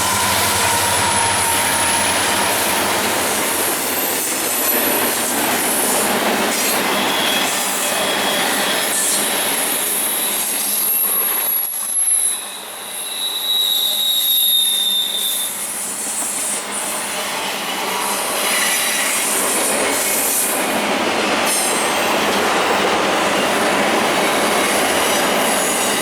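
Intermodal freight train rolling past at close range, a steady loud rumble of wheels on rail with thin, high-pitched wheel squeals rising above it. The sound dips briefly about halfway, then carries on.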